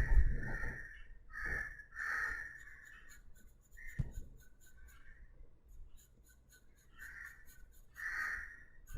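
Pencil shading on paper: a series of separate scratchy strokes about a second apart, with a sharp click about four seconds in.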